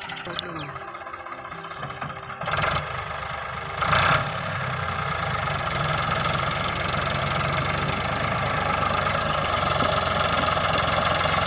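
Tractor's diesel engine running, with two short loud surges about two and a half and four seconds in, after which it runs louder and steadily under throttle.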